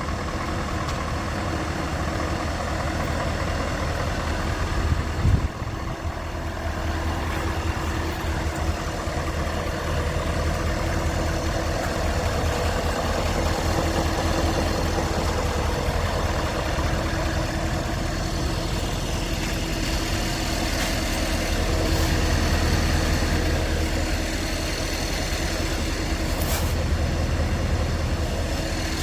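Scania R580 tractor unit's V8 diesel engine idling steadily, with a brief thump about five seconds in.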